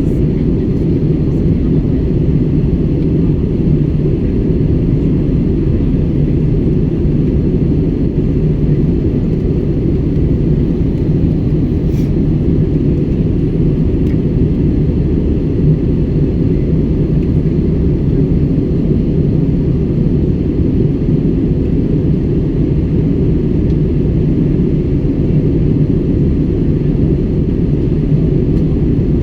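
Steady low rumble of an airliner cabin in cruising flight, the engines and airflow heard from inside the cabin, unchanging throughout.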